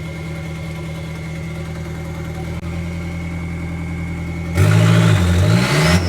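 Car engine idling steadily, then revved hard about four and a half seconds in, its pitch climbing with a high whine rising steeply above it: the car being launched for a burnout attempt on wetted ground.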